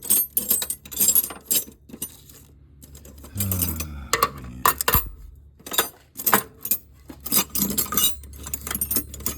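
Steel wrenches clinking and rattling against each other as they are picked through in a toolbox drawer, in quick irregular clinks.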